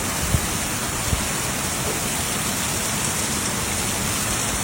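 Heavy rain falling with a steady, even hiss, and a couple of faint knocks in the first second or so.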